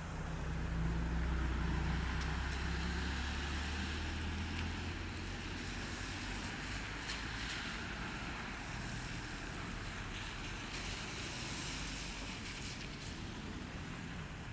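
Lockheed C-5M Super Galaxy flying past, its four turbofan engines making a deep rumble that is loudest in the first couple of seconds, then a broad, steady jet roar that carries on.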